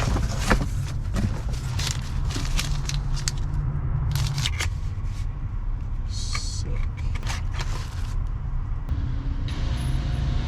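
Rustling, crinkling and clicking of packaging as gifts are unpacked by hand, over a steady low vehicle rumble.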